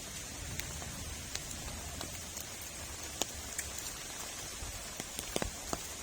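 Heavy rain falling: a steady hiss with scattered sharp drop impacts, a few louder ones a little after five seconds in.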